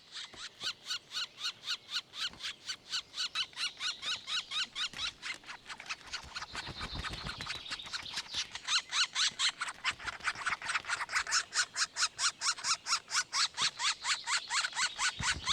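Black woodpecker nestlings, nearly three weeks old, begging for food at the nest: a fast, unbroken run of short, high calls, about five a second, from several chicks, growing louder about nine seconds in.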